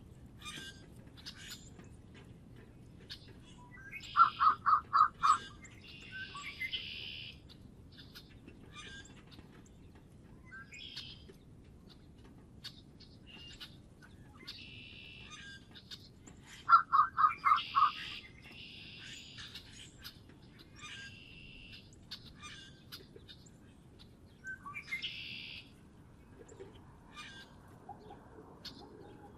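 Songbirds calling with many short high chirps. Twice, about four seconds in and again near the middle, one bird gives a loud quick run of about five notes followed by harsh buzzy calls, and one more buzzy call comes near the end.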